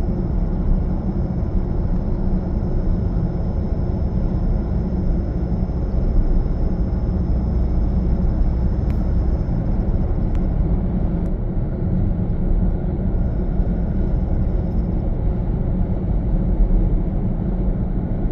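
A 2021 Toyota Corolla being driven: steady low engine and road rumble, with a faint high steady whine that stops about ten seconds in and comes back briefly a few seconds later.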